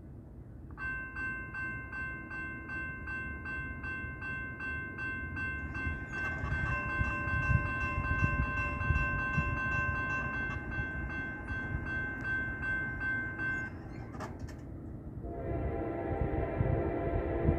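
Norfolk Southern freight locomotive horn sounding a long multi-note chord as the train passes at speed, with a faint ringing about twice a second under it early on. The horn breaks off about three-quarters through, then sounds again lower near the end over the rising rumble of the passing train.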